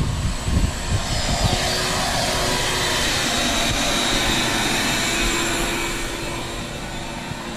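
Vacuum cleaner running with a steady whine and rush of air, swelling louder for a few seconds and easing off near the end, with a few low thumps in the first second.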